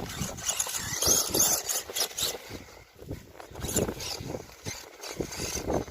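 RC mud truck's brushless electric motor whining in irregular bursts of throttle, with the tyres churning through mud.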